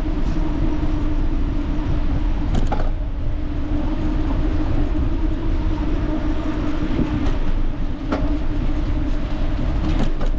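Wind buffeting the microphone of a moving bicycle ride, over steady tyre-rolling noise with a constant hum, broken by a few sharp knocks about three, seven, eight and ten seconds in.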